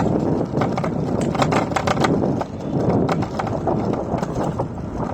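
A scooter rolling over rough city pavement: steady road noise with a constant scatter of small clicks and rattles from the ride.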